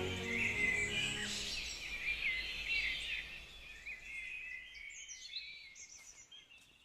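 Small birds chirping and twittering in many short, wavering calls. The sound fades steadily away toward the end.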